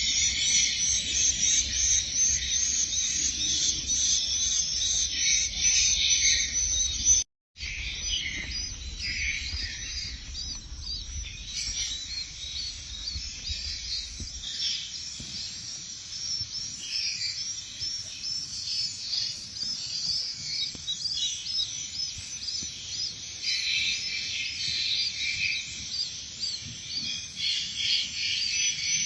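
Dense chorus of swiftlets, many short high twittering chirps overlapping without a break. A low hum lies under the first half, and the sound drops out completely for a moment about seven seconds in.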